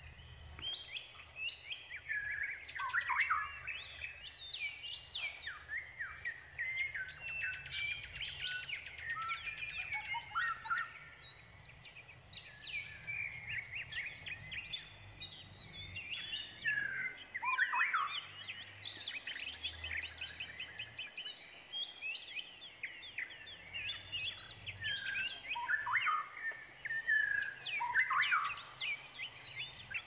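Small birds chirping busily: many short, quick notes, several sweeping down in pitch, overlapping with hardly a pause.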